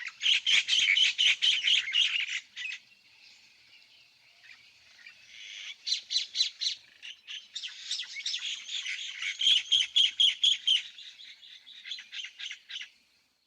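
Birds chirping in quick series of high notes, about six a second. There are two bouts: a short one at the start, and a longer one from about six seconds in until near the end.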